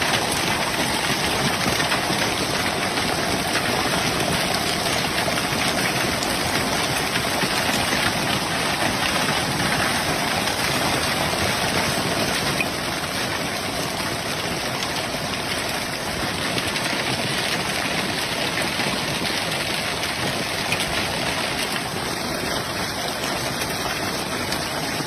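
Steady rushing noise with no distinct events; it drops slightly in level about halfway through.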